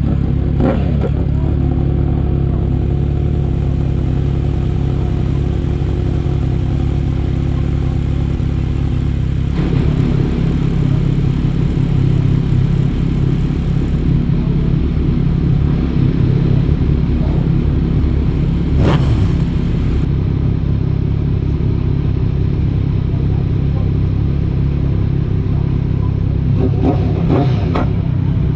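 Motorcycle engine running steadily while being ridden. About ten seconds in the sound turns rougher and a little louder, with a brief sharp knock near the middle and a couple more near the end.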